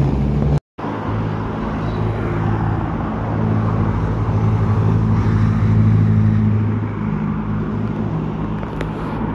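A car engine running at steady low revs as the car goes slowly by, over street traffic noise. The sound cuts out completely for a moment just under a second in. The engine then grows louder toward the middle and eases off near the end, with no rise in pitch.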